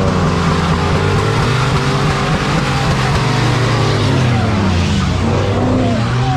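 Car engines revving hard, their pitch sliding down and back up, over a steady rush of tyre noise from cars spinning their wheels.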